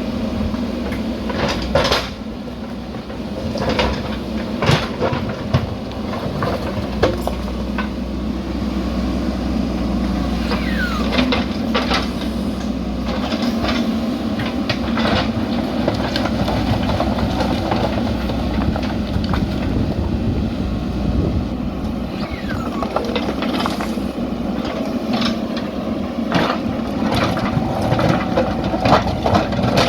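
JCB backhoe loader's diesel engine running steadily while the machine works, with frequent metallic clanks and knocks from the bucket and arm and a few short squeals.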